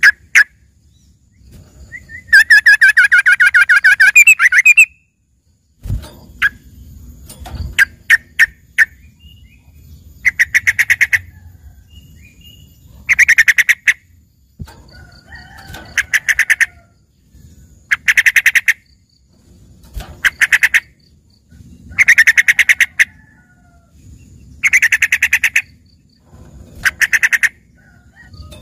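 Yellow-vented bulbul (trucukan) singing a mimicry-trained fill-in song: one long warbled phrase early, then short rapid chattering trills repeated every two to three seconds.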